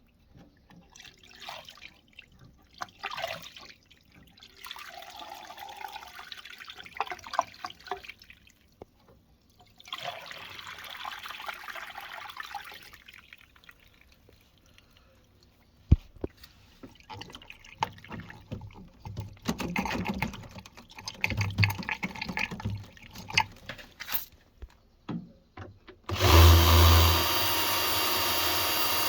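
Water from a washing machine's drain being let out, splashing and trickling in several uneven spells, with small knocks of handling. About 26 s in, a loud electric motor starts and runs steadily with a low hum and a whine.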